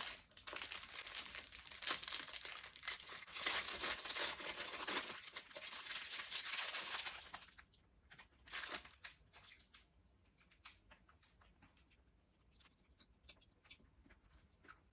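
Snack bar wrapper being torn open and crinkled, with dense crackling and tearing for about seven seconds and a short crinkle a second later. After that, only faint small clicks.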